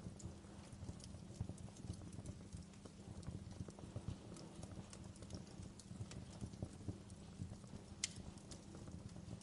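Wood fire crackling in a fireplace: frequent small irregular crackles and snaps over a low steady rumble, with one sharper pop about eight seconds in.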